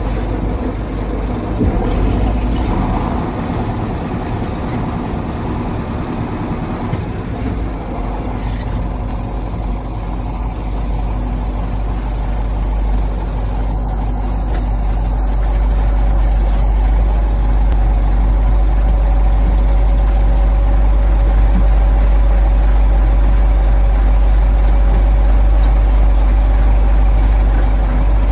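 1985 KAMAZ 4310 6x6 truck's V8 diesel engine running steadily while driving, getting louder about halfway through and then holding.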